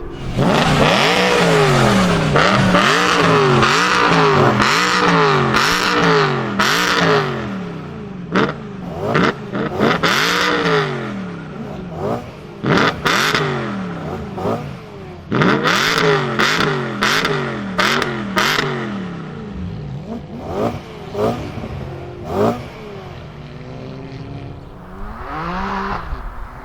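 BMW performance car engine revved hard again and again in quick blips, its pitch climbing and dropping about once or twice a second, with sharp cracks between revs. The blips thin out in the second half, ending in one slower rise and fall near the end.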